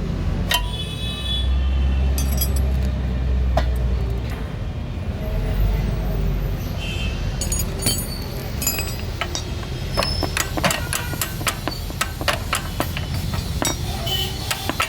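Metal tools clinking and tapping in a scooter repair, the clicks getting denser from about halfway through, over a low rumble of traffic.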